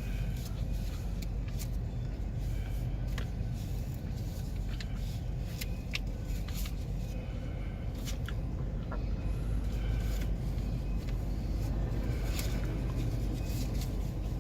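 Manifest freight train rolling past: a steady low rumble with scattered sharp clicks and squeaks from the wheels and cars.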